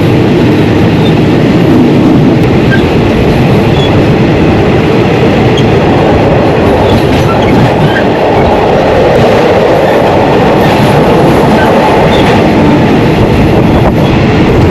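State Railway of Thailand passenger train 201 running along the line, heard from on board as a loud, steady rumble and rattle of the carriage on the rails.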